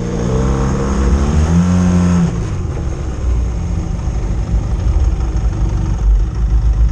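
Motorcycle engine running: its pitch rises for about two seconds and then drops away, settling into a steady rumble, with a low, even throb near the end like idling.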